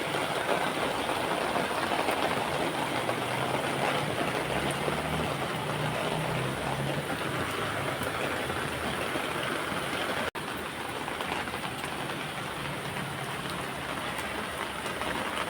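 Steady rain falling, an even hiss, with a faint low hum underneath. The sound drops out for an instant about ten seconds in.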